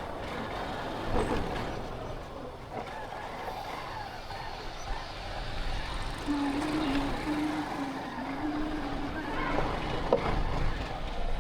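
Road traffic noise from passing vehicles: a steady rumble, with a thin wavering tone about six seconds in that holds for roughly three seconds.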